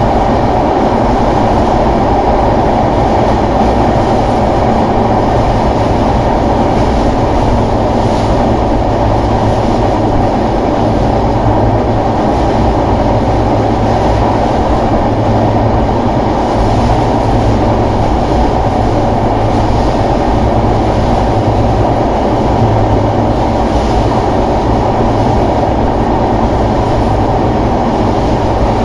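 Passenger train in motion: a loud, steady rumble of the wheels running on the rails, unbroken throughout.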